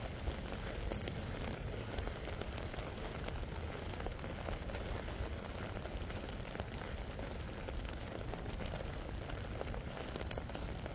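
Steady rainfall, with many small drops ticking on an umbrella overhead.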